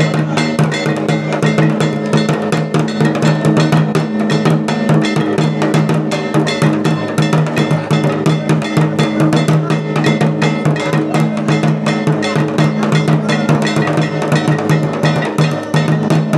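Dance music with fast, dense drumming over a steady low drone.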